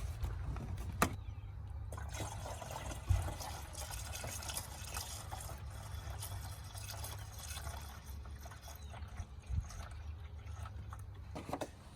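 Coolant being poured into a car's cooling system after a thermostat replacement, trickling and gurgling as it fills, with a few short knocks.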